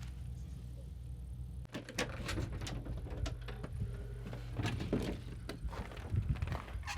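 Hands handling packing and crafting materials on a desk: a run of irregular clicks, taps and paper rustles, with a couple of duller knocks near the end. A steady low hum is heard for the first second or two, then cuts off.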